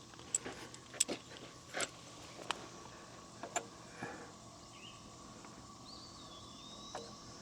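Steel washers clicking as they are picked through and handled: a few short, sharp clicks spaced through the first four seconds. Faint bird chirps near the end.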